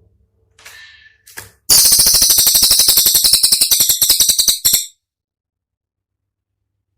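A cililin songbird gives a loud, very rapid burst of sharp, high-pitched notes, roughly a dozen a second for about three seconds, after a faint short call. The burst cuts off suddenly into dead silence.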